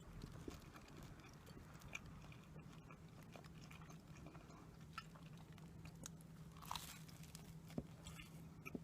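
Quiet chewing and biting of sweets, with scattered small crunches and clicks, the loudest about two-thirds of the way through, over a steady low hum.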